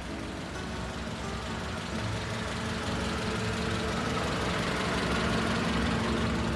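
Car engine idling with a steady hum that grows slightly louder.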